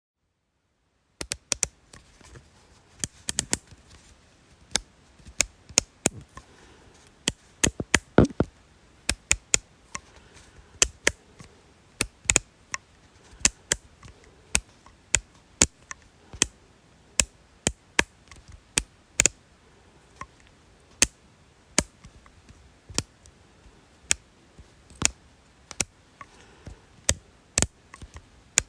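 A series of sharp, short clicks at an uneven pace, about one or two a second, some in quick pairs, starting about a second in.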